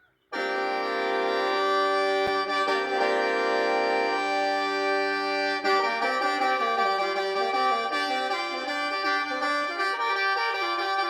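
Khaen, the Lao bamboo free-reed mouth organ, playing a melody in chords over a steady drone note. It comes in abruptly just after the start and plays without a break.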